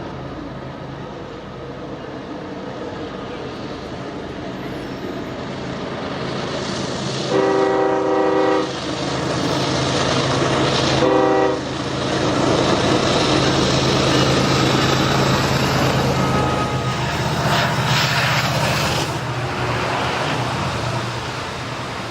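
Norfolk Southern diesel locomotive approaching with its engine drone building, sounding its air horn: a long blast about seven seconds in and a short one about eleven seconds in. Then the train's wheels roll past on the rails.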